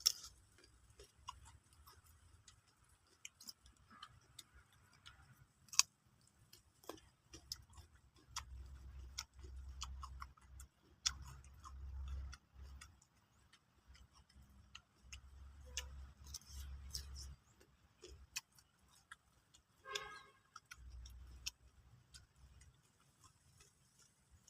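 A person chewing crunchy raw papaya close to the microphone: many scattered sharp crunches and clicks, with low thumping in several stretches.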